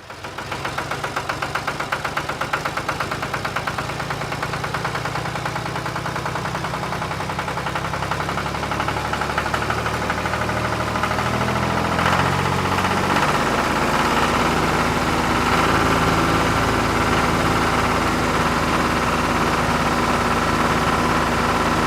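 Small engine running steadily at idle with a rapid, even knock, getting a little louder about halfway through.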